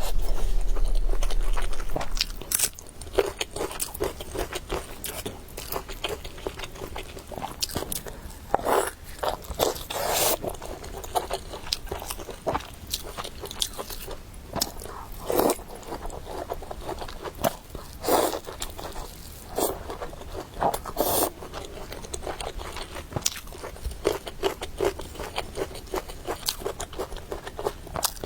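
Close-miked eating sounds: a person biting and chewing food, with irregular wet smacks and crunches, louder for the first couple of seconds.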